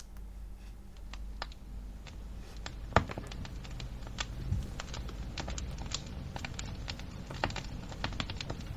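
Fire crackling: irregular pops and snaps that grow more frequent, with one loud snap about three seconds in, over a low steady noise.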